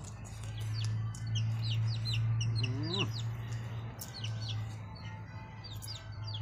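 Birds chirping: a quick run of short falling chirps, repeated throughout, over a steady low hum.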